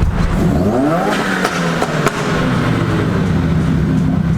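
Car engine revving hard under acceleration, its note climbing steeply for about a second and then settling into a steadier, lower drone as the car keeps going.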